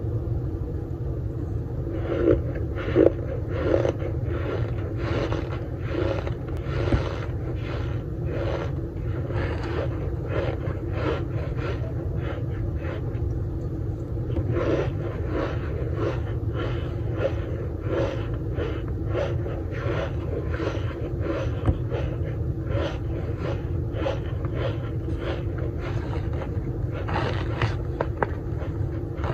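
Close-miked chewing of compressed cornstarch chunks: quick, irregular crunches and squeaks, about two a second, starting about two seconds in, over a steady low rumble.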